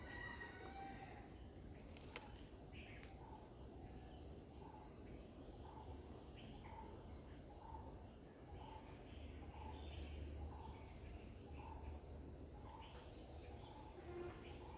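Faint garden ambience: insects chirring in a steady high-pitched drone, with a short call repeated about every half second and a few scattered bird chirps.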